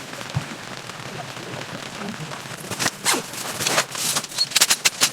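Steady rain, joined about three seconds in by a quick run of sharp crackles and rustles close by.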